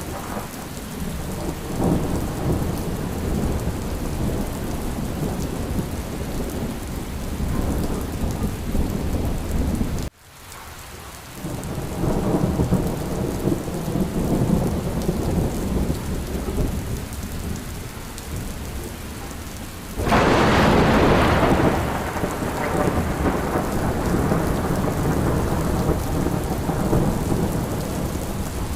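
Steady heavy rain with low rolling thunder. About ten seconds in the sound cuts out abruptly and swells back. Later a louder thunderclap breaks in and rumbles away over several seconds.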